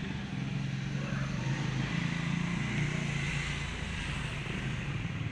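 Steady low engine rumble with a hiss above it.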